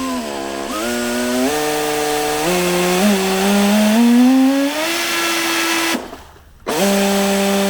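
RC jet ski's motor and jet pump running on throttle: a whine that climbs in pitch in steps for about five seconds, cuts out, then runs again at a steady pitch near the end.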